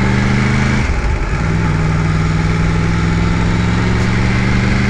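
Yamaha MT-10's crossplane inline-four engine running at steady revs. Its note drops to a lower steady pitch about a second in.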